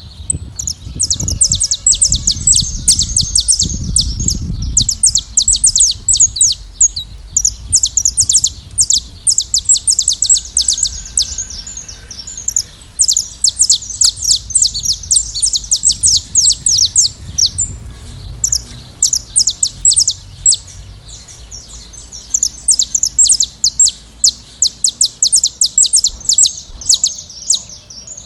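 Saffron finches singing: long bouts of rapid, high chirps and trills with brief pauses between them. A low rumble sits under the song for the first few seconds.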